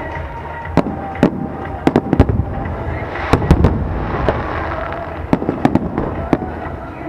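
Aerial fireworks display: shells bursting in a rapid, irregular series of sharp bangs, about a dozen over a few seconds, above a continuous noisy rumble from the show.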